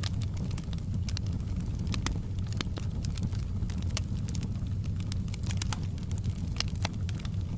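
Wood fire crackling in a fireplace: irregular sharp snaps and clicks over a steady low rumble of the flames.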